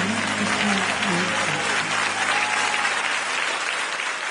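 Audience applauding and cheering at the end of a live song recording, with a voice calling out over the clapping in the first second or so.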